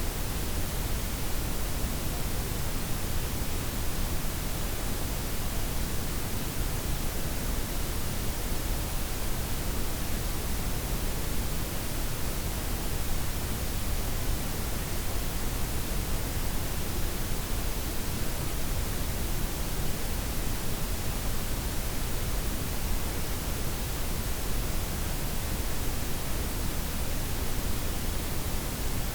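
Steady blended white, pink and brown noise: an even, unchanging hiss with a deep rumble underneath, its highest frequencies softened.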